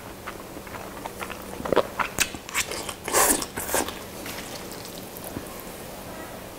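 A person biting and chewing crunchy kimchi close to the microphone, with a cluster of loud crunches from about a second and a half to four seconds in, then quieter chewing.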